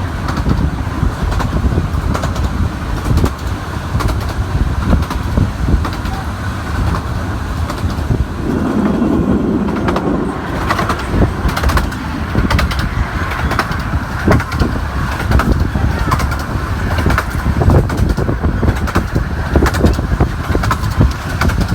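A 15-inch gauge miniature railway train running: a steady low rumble with many irregular clicks and knocks from the wheels and track.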